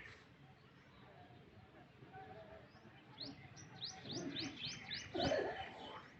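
A bird calling a quick run of about seven high chirps, each a short downward sweep, about three a second, starting a few seconds in. A brief louder sound cuts in about five seconds in.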